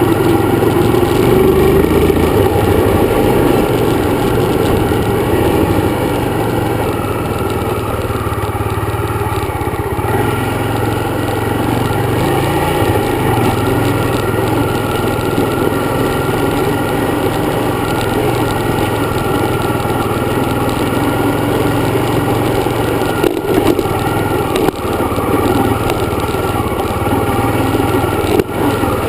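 Dirt bike engine running steadily while riding, with a couple of brief dips in level in the last third.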